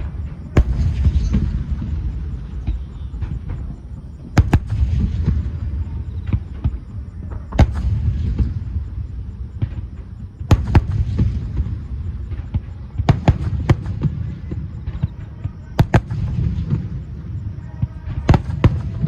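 Aerial firework shells bursting: about a dozen sharp bangs, some in quick pairs, a few seconds apart, over a continuous low rolling rumble.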